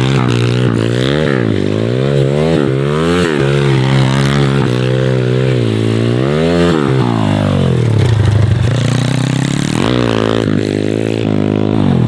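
MRF 140 TTR pitbike's small single-cylinder four-stroke engine revving up and down over and over as the throttle is opened and closed, its pitch rising and falling about once a second. After about seven seconds it drops lower and steadier for a few seconds, then climbs again near the end.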